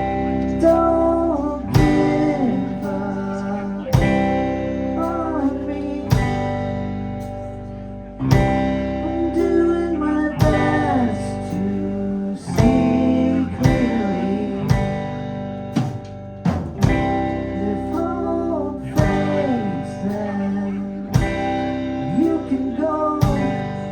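Rock band playing live: electric guitar, bass, drums and keyboards in sustained chords, hit together about every two seconds, with a melody line gliding up and down over them.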